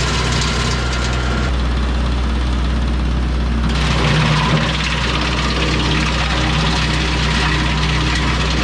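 Kubota L3301 compact tractor's three-cylinder diesel engine running steadily, with a rushing noise that grows louder about four seconds in.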